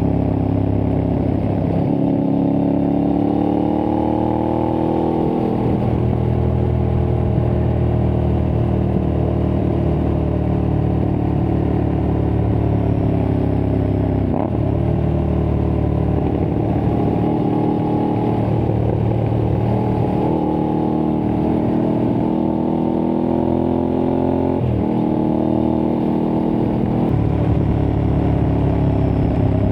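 Aprilia Tuareg 660 parallel-twin engine through a replica Akrapovič exhaust, running under load. Its pitch climbs as it pulls and drops at each gear change, several times over.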